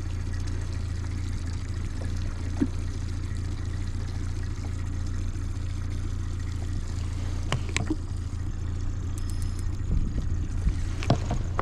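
Boat motor running steadily at a low hum, with a few sharp clicks and knocks, most of them near the end.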